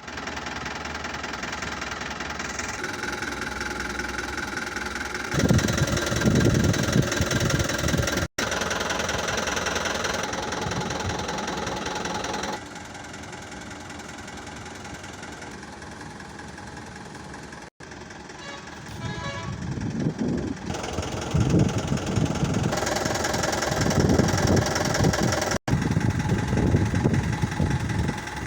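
Tata SFC 407 truck's diesel engine running, heard in several short clips joined together, with louder, uneven stretches.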